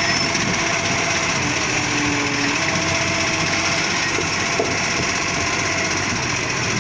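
Garbage truck engine running steadily, an even mechanical drone with no breaks.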